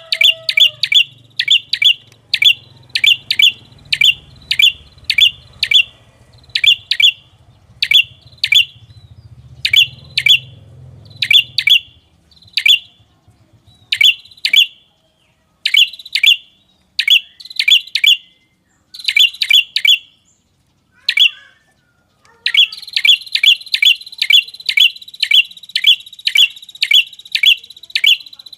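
Recorded lure call of the red-headed prenjak: sharp, repeated high chirps, two to three a second in runs broken by short pauses. About three-quarters of the way through, a steady high hiss and tone join under the chirps.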